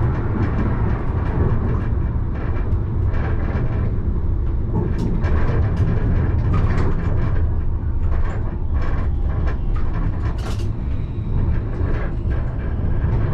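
Alstom Citadis tram running, heard from inside the driver's cab: a steady low rumble with frequent small clicks and rattles, and one brief sharp noise about ten seconds in.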